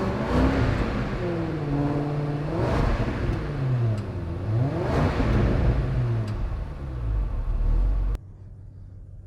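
Range Rover P530's V8 engine revved three times, each time climbing in pitch and falling back toward idle; the sound cuts off abruptly near the end.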